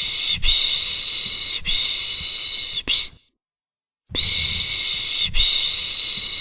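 A person making the soothing 'shhh' hushing sound used to calm a baby: three long shushes of about a second each in a row, then a short one, a pause of about a second, and the same run of shushes starting again.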